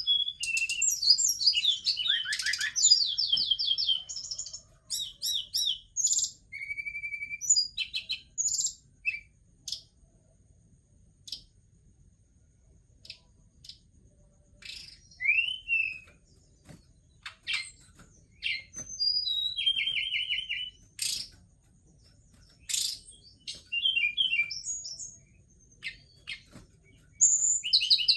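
A tledekan gunung songbird calling and singing in short, high-pitched bursts of chirps, rapid trills and quick up-and-down whistles, with pauses of a few seconds between phrases.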